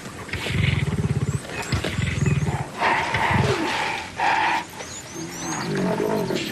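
Young lions growling: three low, rasping, pulsing growls in the first few seconds, then higher snarls and a moaning call. Short bird chirps come near the end.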